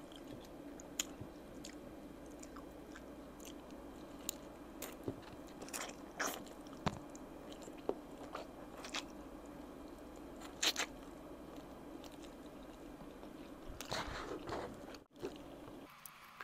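Close-miked eating of oven-roasted chicken wings: chewing and biting, with irregular wet mouth clicks and small crackles of skin, a few louder bites along the way.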